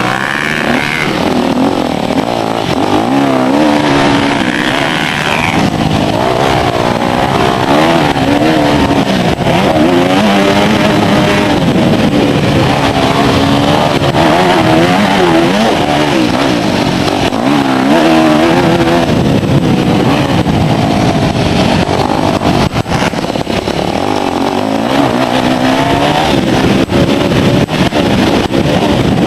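Motocross bike engines running hard, the pitch rising and falling over and over as the throttle is opened and shut through the gears.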